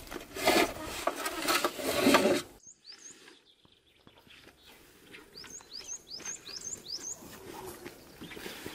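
A few loud scraping, crunching noises, then a sudden drop in level and a small bird chirping: quick rising chirps, a couple at first, then a run of about six in quick succession.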